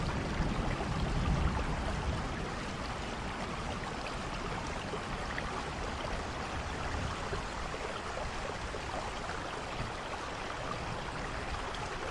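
Steady rainfall, an even hiss of falling water, with a low rumble dying away over the first two seconds.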